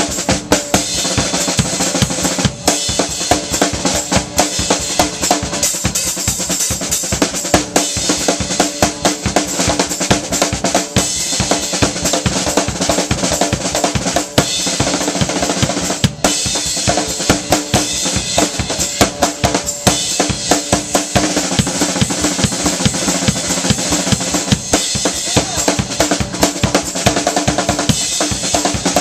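A live band playing a song, with a drum kit beating out a steady, driving rhythm loudest in the mix over bass and other instruments.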